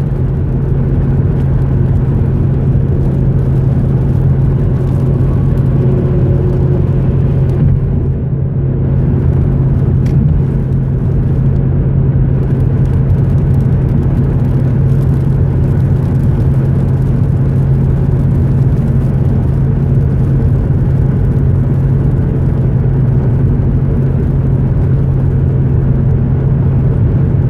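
Steady driving noise inside a moving car's cabin: a constant low drone of engine and road noise.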